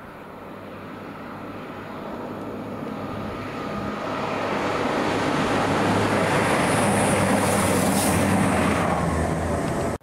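CrossCountry Voyager diesel multiple unit approaching and passing, its underfloor diesel engines and wheels on the rails growing steadily louder to a peak with a hiss from the rails, then cutting off suddenly near the end.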